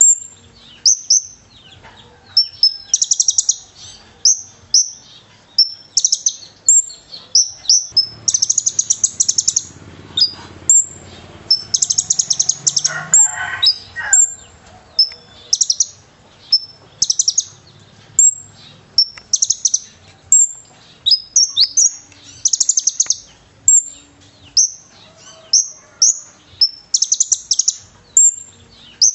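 Konin sunbird singing non-stop: a fast stream of high, sharp chirps and short buzzy trills, a burst about every second, its song filled in with cililin phrases. A brief lower sound joins in near the middle.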